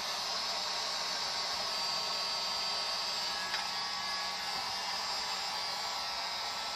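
A small electric blower running steadily, with a single light click about three and a half seconds in.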